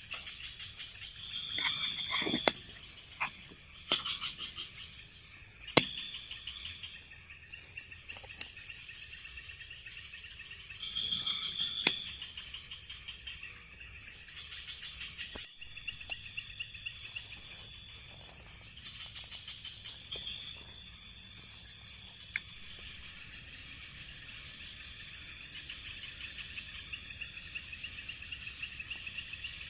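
Night-time tropical forest insect chorus: crickets and other insects buzzing steadily at a high pitch, with a few scattered sharp clicks and short chirps. About two-thirds of the way through, one insect starts a loud, steady high-pitched whine that carries on to the end.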